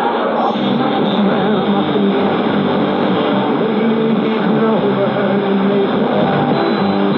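A medium-wave AM radio station playing music, heard through a receiver with a thin, muffled sound and a steady layer of static hiss. A faint steady high whistle sits above it.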